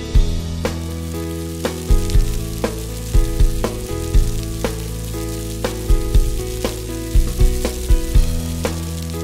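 Sliced onion sizzling in hot oil in a frying pan as it is stirred with a spatula. Background music with a steady beat plays under it.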